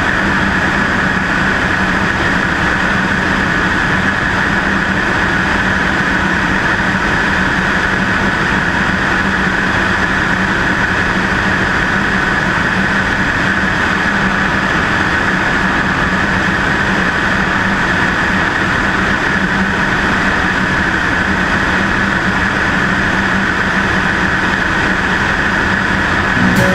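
Cessna 152's four-cylinder Lycoming engine and propeller droning steadily, mixed with wind rush, as heard from a camera mounted outside on the wing.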